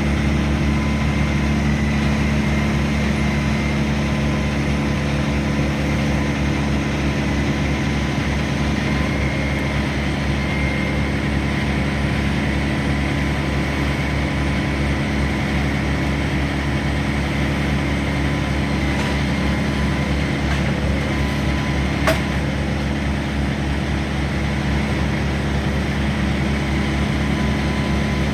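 An engine running steadily at constant speed, with one sharp click late on.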